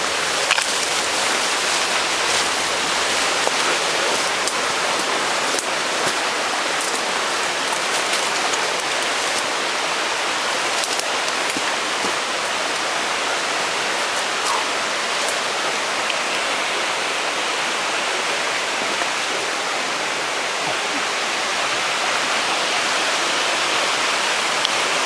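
Steady rush of falling water from a waterfall and its stream, with a few light clicks on top.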